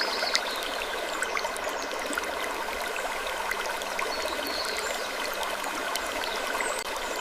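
Steady trickling, stream-like water noise, even and unbroken, scattered with many small clicks and ticks.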